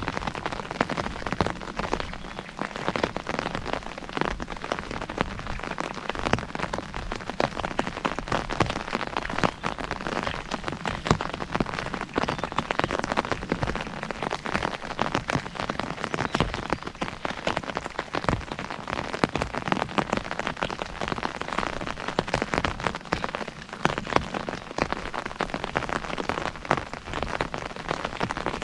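Steady rain falling on an umbrella: a dense, continuous patter of many individual drops striking the canopy.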